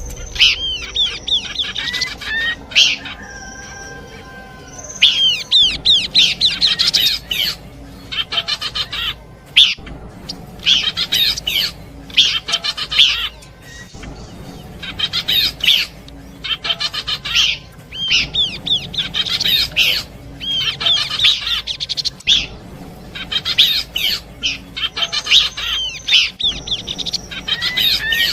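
Pelanduk semak (Horsfield's babbler) song in a bird-luring recording. It is made of clusters of quick, high chirps and whistles that come in phrases of a second or two, with short pauses between them.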